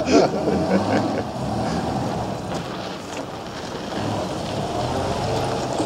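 Vintage MG saloon's engine running as the car drives slowly across a gravel yard. The engine fades a little about halfway through, then grows louder as the car comes back toward the listener, with some wind on the microphone.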